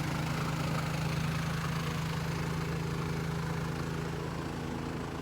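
Troy-Bilt snowblower engine running steadily at a constant speed.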